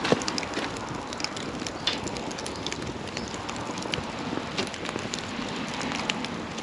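Wood campfire burning, with a steady hiss and many small, irregular crackles and pops, a sharper pop at the start and another about two seconds in.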